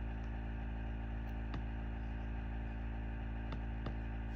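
Steady low electrical hum, with a few faint ticks over it.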